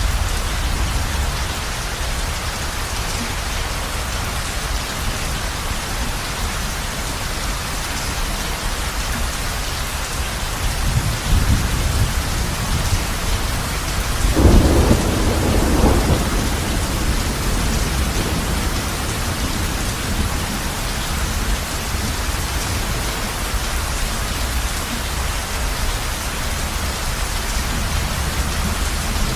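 Heavy rain pattering steadily on a roof, with a roll of thunder rumbling up about halfway through and fading over a few seconds.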